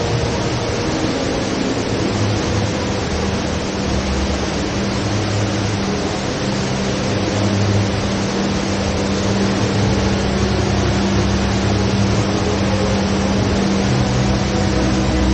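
HSBC Rain Vortex, a tall indoor waterfall, pouring steadily into its basin: a loud, even rush of falling water with a low rumble and a steady hum underneath.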